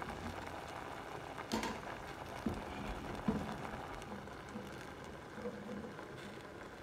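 Onion-tomato masala with mustard seeds sizzling gently in a steel pan, with a few light knocks about a second and a half, two and a half and three seconds in.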